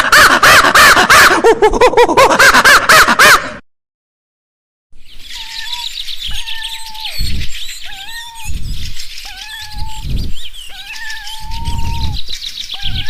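Birds calling, in two separate clips: first a loud run of rapid chattering chirps and warbles that stops about three and a half seconds in; then, after a second of silence, a chorus of high chirping with a repeated flat whistled note, held about half a second to a second, sounded five or six times.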